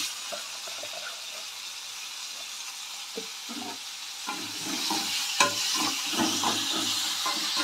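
Chopped tomatoes and onions sizzling in hot oil in a metal kadai. From about four seconds in, a metal spatula stirs them, scraping and knocking against the pan, and the sizzle grows louder.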